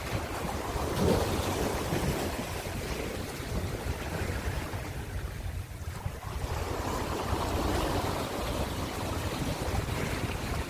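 Ocean waves breaking and washing on a shore, a continuous surf with a low rumble that swells, eases off briefly midway, then builds again. Wind buffets the microphone.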